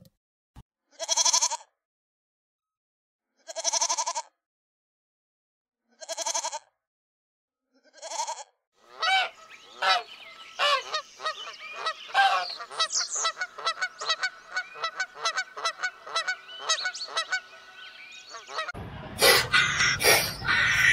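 Domestic geese honking: four single calls a couple of seconds apart, then a flock calling over one another in a dense, continuous chorus. Near the end the calls give way to a burst of rough noise.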